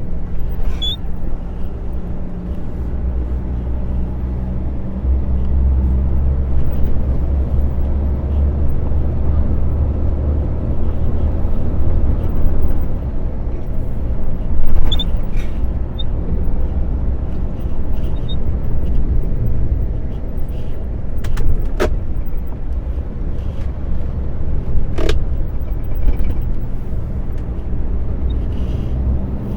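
Truck's diesel engine running steadily while driving, a low drone heard from inside the cab, with two sharp clicks in the second half.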